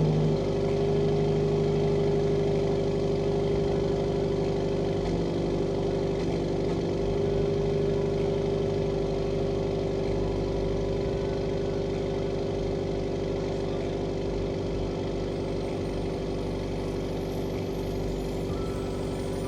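Subaru WRX's FA20 2.0-litre turbocharged flat-four idling steadily on its first run after new fuel injectors were fitted, its level easing down slowly as the ECU relearns the idle.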